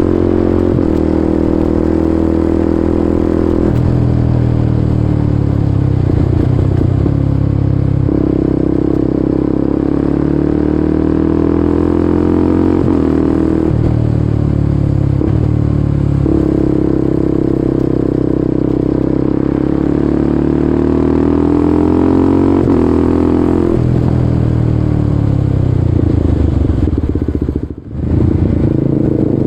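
Kawasaki Ninja 250SL single-cylinder engine through a KEA Speed NA 1 aftermarket exhaust, ridden under way. Its note rises and falls repeatedly as the bike accelerates and shifts through the gears, with a brief sharp drop in sound near the end.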